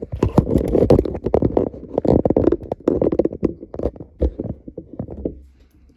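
Close handling noise: rapid, irregular scraping, knocking and rubbing over a low rumble, dying away about five and a half seconds in.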